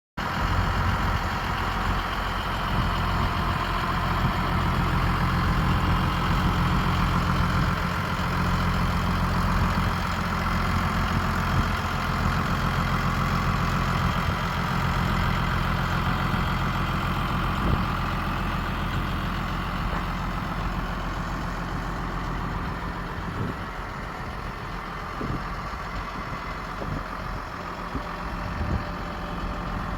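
Case IH MXM140 tractor's diesel engine idling steadily, its low hum growing weaker for the last several seconds.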